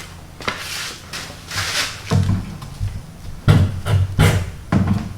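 Several separate knocks and clunks from hands-on work on a door and its fittings, the loudest a little past halfway, over a low steady hum.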